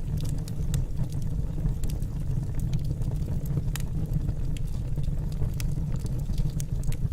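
Wood fire burning in a fireplace: a steady low rumble of the flames with scattered sharp crackles and pops from the burning logs, several a second at irregular intervals.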